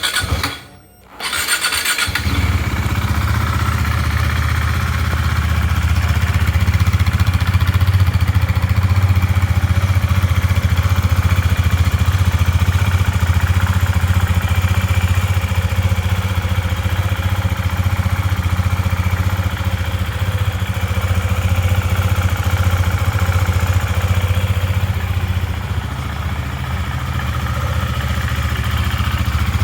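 2018 KTM 390 Duke's single-cylinder engine starting up about a second in, then idling steadily.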